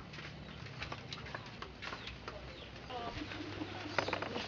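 Birds chirping in short, scattered calls over a low steady hum of rural outdoor ambience.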